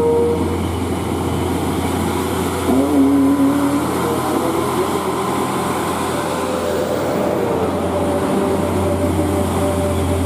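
Heavy vehicle engines running steadily with a low drone and a few held tones, with a short change in pitch about three seconds in.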